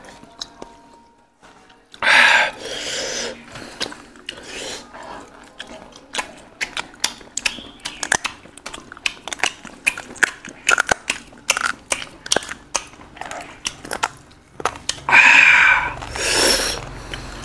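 People chewing food with lots of short wet mouth clicks and lip smacks, with a louder breathy burst about two seconds in and again near the end.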